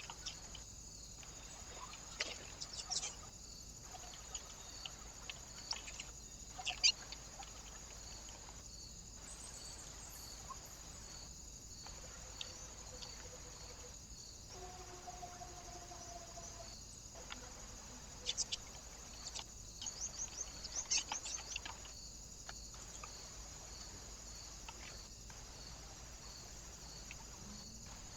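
Small birds at a bird feeder giving short, sharp chirps in a few bursts: a couple about two to three seconds in, one about seven seconds in, and a quick cluster between about eighteen and twenty-two seconds, over a steady high hiss.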